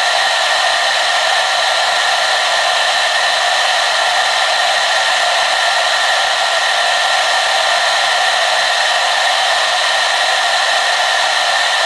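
Hair dryer running steadily: a constant rush of blown air with a steady motor whine on top, no changes in speed.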